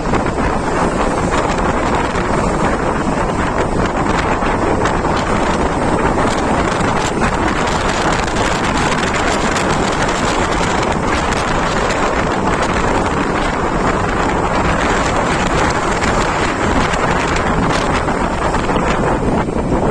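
Heavy wind buffeting the microphone, a steady loud rushing that does not let up.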